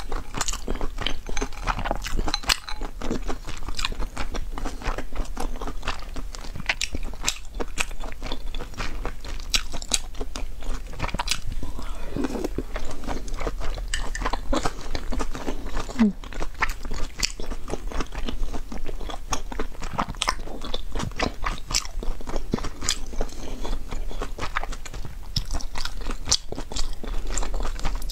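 Close-miked mouth sounds of someone eating soup dumplings (guantang bao): steady chewing with many small, irregular clicks and crackles.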